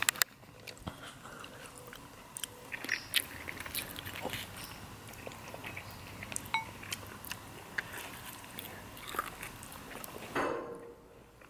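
Someone chewing and biting food close to the microphone, with scattered short clicks of cutlery on dishes. A brief louder noise comes about ten seconds in.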